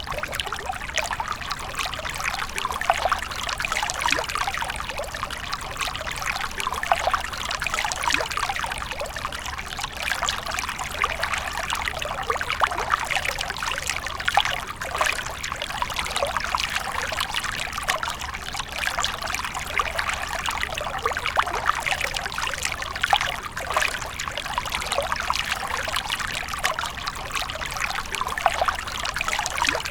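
Water fountain splashing and trickling steadily, a continuous falling-water sound with small irregular splashes.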